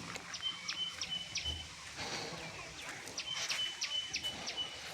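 A bird calling outdoors: two phrases of short, sharp repeated high notes over a steady high whistle, each phrase lasting about a second and a half.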